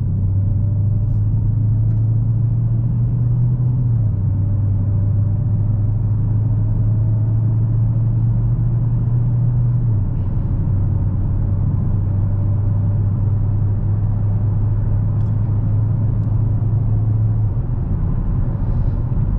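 Steady low drone of the Dodge Challenger Hellcat's supercharged 6.2-litre V8 with road noise, heard from inside the car while driving. The drone's pitch steps down slightly three times.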